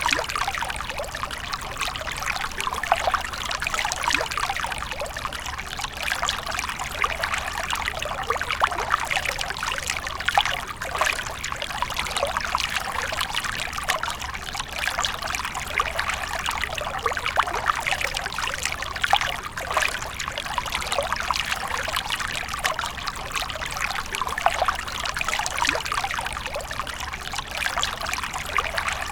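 Water from a fountain splashing and trickling steadily, a dense patter of small drops with no let-up.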